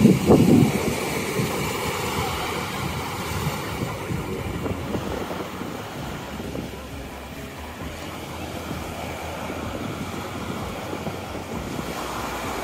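Ocean surf washing at the shore, with wind buffeting the microphone hard in the first second and then easing to a steady rush.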